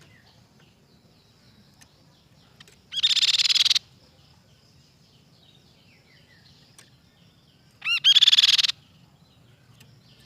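Crescent-chested babbler (tepus pipi perak) singing: two loud, rapid trills of under a second each, about three seconds in and again about eight seconds in, the second led in by a short rising note. Faint high chirps fill the gaps between them.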